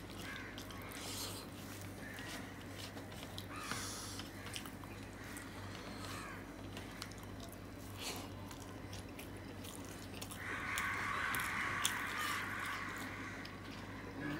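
Close-up chewing and wet mouth clicks of a man eating rice mashed with potato bhorta, with his fingers squishing the food on a steel plate. About ten seconds in, a steady hiss lasts roughly three seconds.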